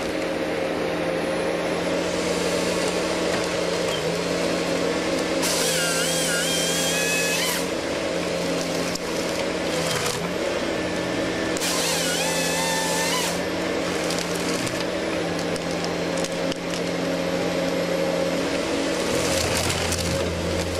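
A heavy machine's engine runs steadily while a saw cuts through wood in two bursts, each lasting about two seconds, with a wavering whine during each cut.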